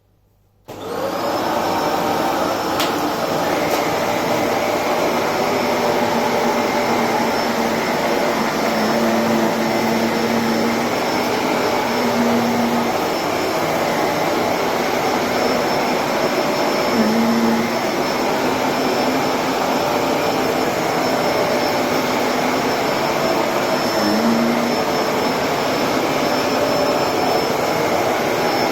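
Electrolux Precision bagless upright vacuum cleaner switched on under a second in, then running steadily while vacuuming a rug: a loud rush of air with a steady high whine.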